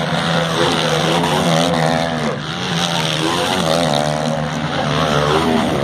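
Motocross bikes' engines running on the track, several at once, their pitch rising and falling as the riders work the throttle.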